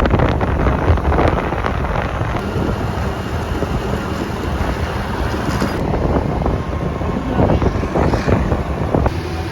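Wind buffeting the microphone over the low rumble of a moving vehicle, with a cut about six seconds in.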